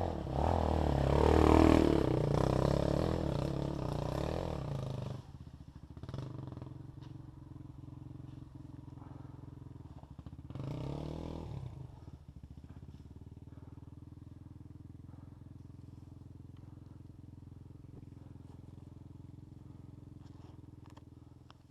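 Off-road vehicle engine revving loudly for about five seconds, then idling steadily, with one short rev about halfway through.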